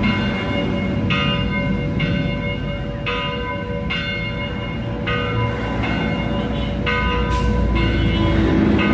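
Steel blade cut from a motorcycle brake disc being ground, ringing with a bell-like tone that starts afresh about once a second over a steady low rumble.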